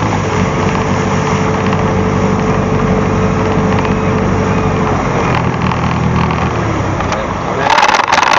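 Boat engine running steadily under way, a continuous drone. Near the end comes a brief burst of loud knocks and noise.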